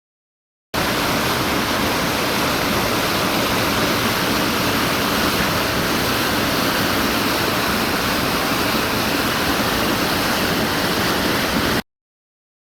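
Steady rushing water, like a fast river or rapids, a constant even noise that starts abruptly and cuts off abruptly near the end.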